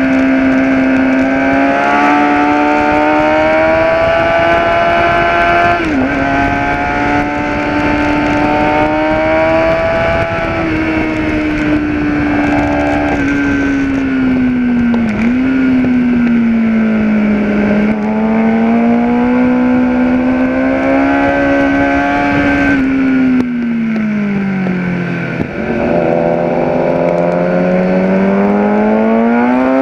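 Gen4 Kawasaki ZX-10R inline-four sportbike engine at high revs on track, its pitch climbing and falling through the gears with brief sharp dips at gear changes. About three-quarters of the way through the revs fall steadily for a couple of seconds, then climb again hard to the end.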